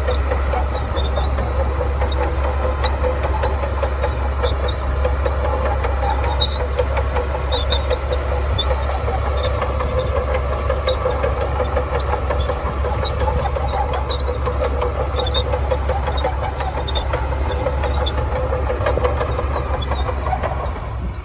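Shantui bulldozer's diesel engine running steadily under work, with a fast mechanical rattle and faint short high squeaks scattered throughout.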